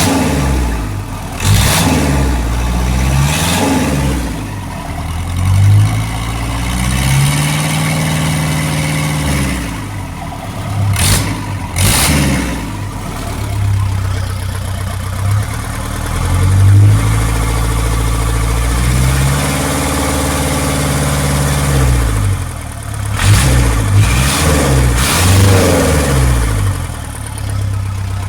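Isuzu 4BE1 four-cylinder diesel engine running on a check run, its revs repeatedly raised from idle and dropped back. Two sharp clicks come about eleven and twelve seconds in.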